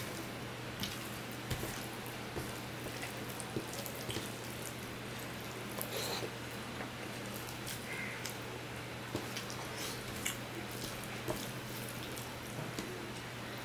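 Soft, wet eating sounds of a man chewing puffed rice mixed with fish curry: small smacks and mouth clicks scattered throughout, with fingers working the food on a steel plate. A steady low hum runs underneath.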